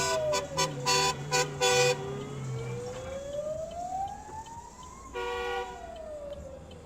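Emergency vehicle siren wailing, its pitch sliding slowly down, back up and down again. It is joined by a rapid series of short horn blasts in the first two seconds and one longer blast about five seconds in.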